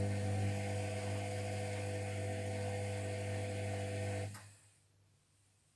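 Washing machine motor running steadily with a low hum as it turns the drum during the wash phase, then stopping about four seconds in as the drum pauses between turns.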